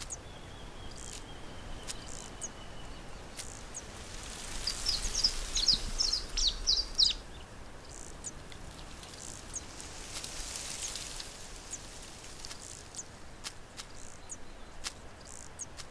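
A bird giving a quick run of high chirps about five seconds in, over a steady outdoor hiss with a few scattered faint clicks.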